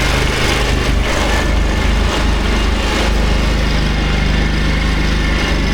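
Small petrol engine of a motorized concrete power buggy running steadily as it hauls a load of concrete.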